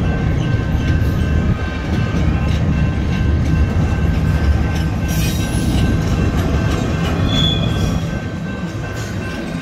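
Double-stack intermodal freight cars rolling past a grade crossing: the steady rumble and rattle of wheels on the rails, with a brief high wheel squeal a little after seven seconds.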